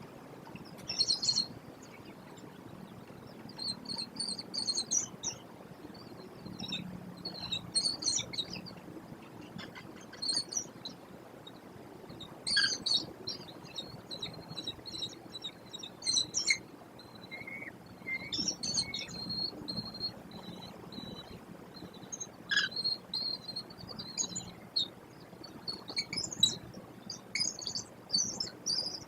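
Birds chirping in short, high-pitched clusters that repeat every second or two over a faint steady background hiss.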